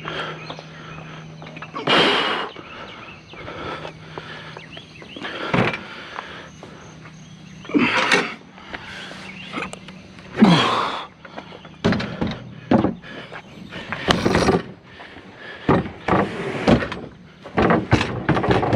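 Irregular thumps, knocks and scrapes of curbside junk being handled and loaded by hand: about a dozen separate impacts, some sharp and some dragging.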